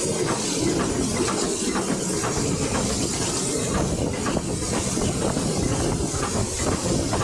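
Steam-hauled heritage train running along the line, heard from an open carriage window: steady rumble and rattle of the coaches on the track under a constant hiss, with light clicks a few times a second.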